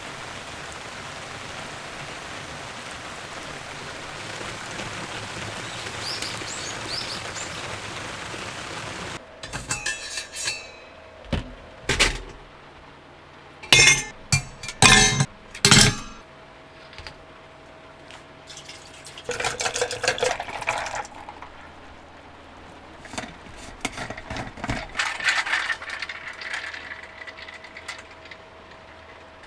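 A steady rushing hiss that cuts off suddenly about nine seconds in, followed by a series of sharp clinks and knocks of hard objects being handled, with longer stretches of scraping or pouring later on.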